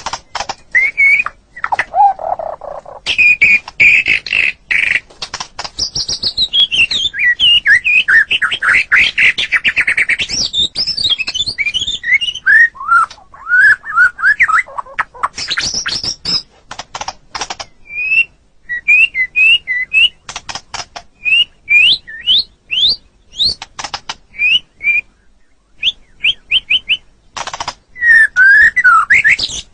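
White-rumped shama (murai batu) singing a long, varied song of whistles and fast trilled runs, followed by short, sharp rising notes repeated in quick series.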